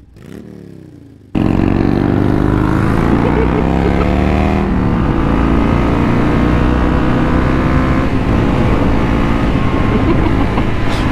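Motorcycle engine accelerating, its pitch climbing, then dropping at a gear change about four and a half seconds in and running on steadily under wind rush. It cuts in suddenly a little over a second in, after a faint passage.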